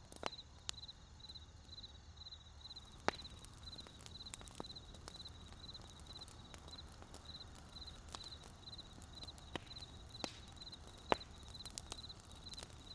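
Wood campfire crackling with scattered sharp pops, the loudest about three seconds in and again near eleven seconds. Behind it, a steady high chirp repeats about two or three times a second.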